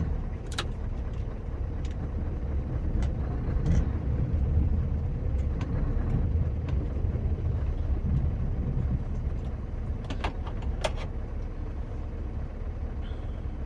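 Scania R560 truck's V8 diesel engine running, a steady low rumble heard from inside the cab that swells a little a few seconds in, with a couple of sharp clicks.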